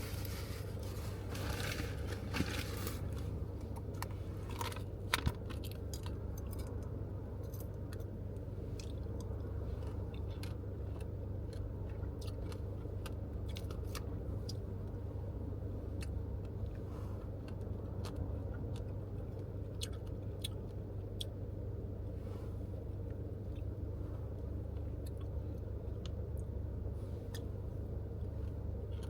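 Steady low hum of a car idling in traffic, heard from inside the cabin, with scattered small clicks and crunches of a fork and pomegranate seeds being chewed, busiest in the first few seconds.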